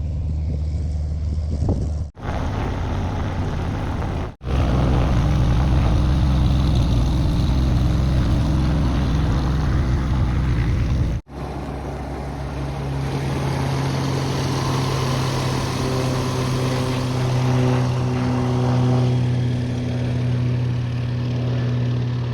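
Single-engine light aircraft's propeller engine running, in several short spliced segments: a loud, even noise in the middle section, then a steady low propeller hum with overtones in the last half.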